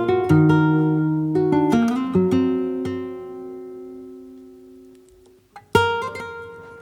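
Background music of a plucked acoustic guitar: a few notes picked in turn, one left ringing and slowly fading, then a new chord struck near the end.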